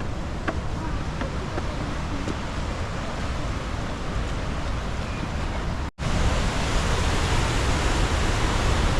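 The Rhine Falls' water rushing: a steady, even wash of noise. After a brief cut about six seconds in, it comes back a little louder.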